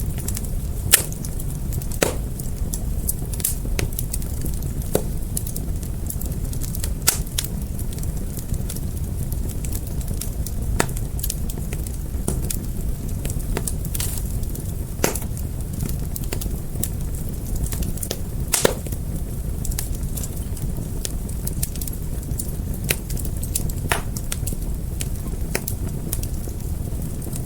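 Fire crackling: a steady low rumble of flames with irregular sharp pops and cracks every second or two, two of them louder than the rest.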